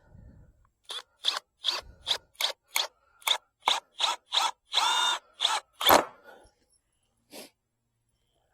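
Power drill driving a screw into wood in a quick series of short trigger bursts, about three a second, with one longer run with a whine near the middle and a last loud burst at about six seconds.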